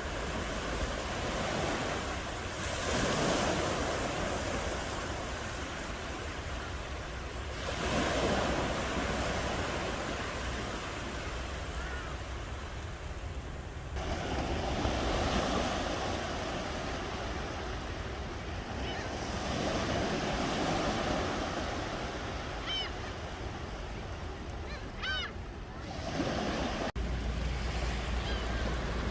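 Ocean waves breaking on a shore, swelling and falling back every five or six seconds over a steady wash of surf. A few faint, high, short chirps come in the second half.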